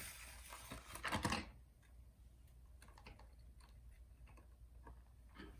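Light clicks and scratching of small tools and plastic being handled during laptop battery removal, with a louder scrape about a second in, then faint scattered ticks.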